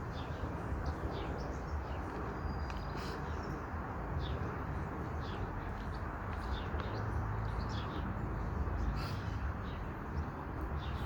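Small birds chirping now and then, short high calls scattered throughout, over a steady outdoor background hiss and low rumble.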